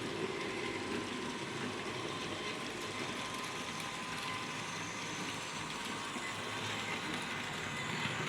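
Märklin H0 scale model of a V 80 diesel locomotive running on a model railway track: a steady motor hum with the rolling noise of wheels on the rails.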